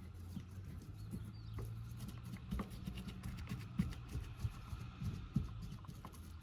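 Irregular light taps, knocks and scrapes of hands working materials on a roof, over a steady low hum.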